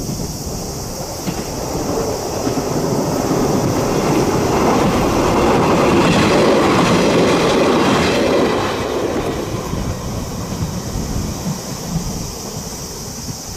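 Train crossing a steel railway bridge, its wheels clattering over the rails. It builds up, is loudest about six to eight seconds in, then fades as it moves away.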